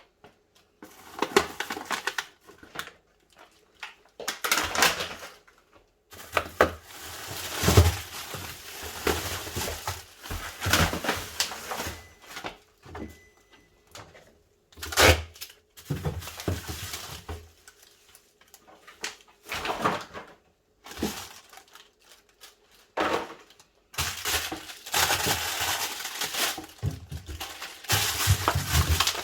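Packaging being pulled out of a new fridge freezer and crumpled, in irregular bursts of crinkling with knocks and short pauses between them.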